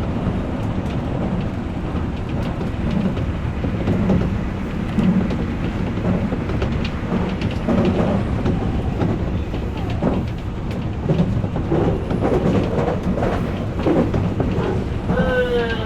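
Odakyu electric commuter train running along the line, heard from inside the leading car: a steady rumble of wheels on rail with scattered clicks from the track. A short falling tone sounds near the end.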